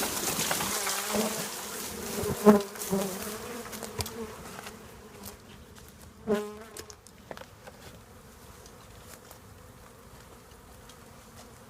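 Honey bee swarm buzzing after being shaken off a grapevine into a box. A loud rustle from the shaken vine fades over the first two or three seconds, leaving a steady hum with individual bees buzzing louder now and then, one about six seconds in.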